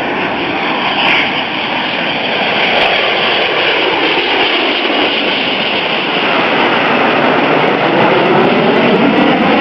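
F-16 Fighting Falcon jet engine roaring as the fighter approaches on a display pass, growing steadily louder, with a sweeping, phasing sound toward the end.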